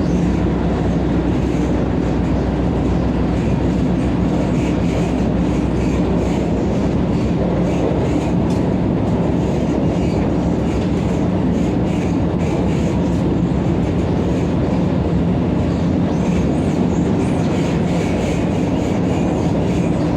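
Vande Bharat electric train running at high speed, heard from on board: a steady, loud rumble of wheels on rail with scattered clicks as the wheels cross the junction's points and crossings.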